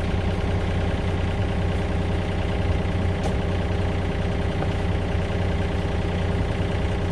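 Engine of heavy excavation machinery running steadily at an even speed, with a strong low hum.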